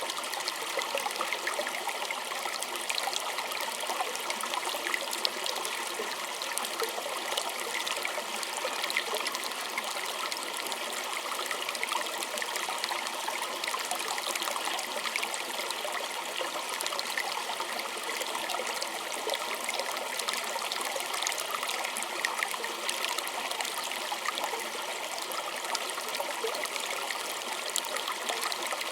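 A small stream flowing steadily, a dense trickle of water full of quick little splashes, with little deep rumble.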